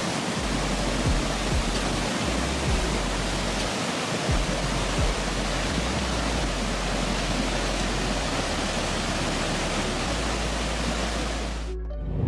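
Steady roar of rushing water, with a low music drone underneath; it cuts off suddenly just before the end.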